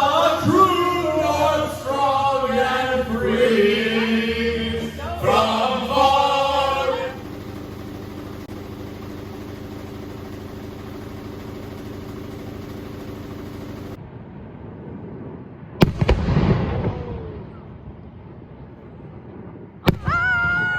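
Singing over music for the first seven seconds, then steady held tones. Two firework bursts about four seconds apart: each a sharp bang, the first trailing off in a long rumble.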